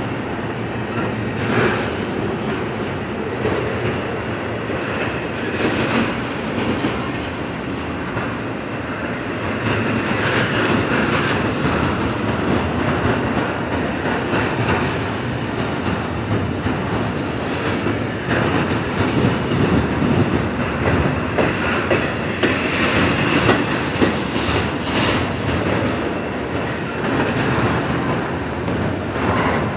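Union Pacific double-stack intermodal freight train rolling past close by: a steady rumble of wheels and well cars on the rails, broken by scattered clanks and clicks as the wheels run over the track.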